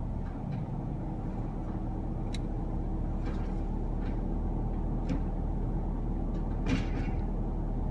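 Garbage truck engine running steadily, with a few sharp clicks and knocks over it.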